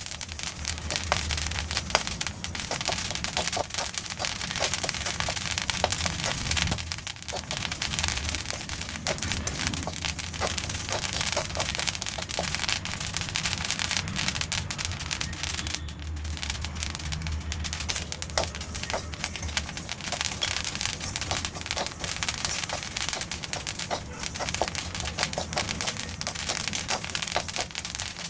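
Black sesame seeds popping and crackling as they dry-roast in a pan, a dense patter of small sharp cracks. The popping is tapering off, the sign that the seeds are nearly roasted.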